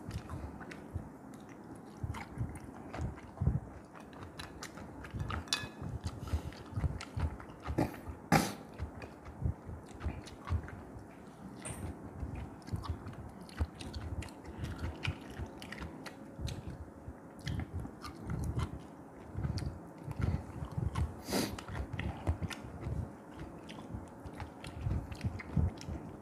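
Chewing and lip smacking of a person eating rice and fish-head soup by hand: a steady run of short mouth sounds, with a sharp click about eight seconds in and again about twenty-one seconds in.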